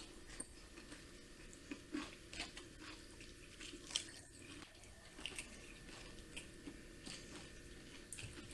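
Close-up sounds of a person chewing a mouthful of taco: faint, irregular crunches and wet mouth clicks.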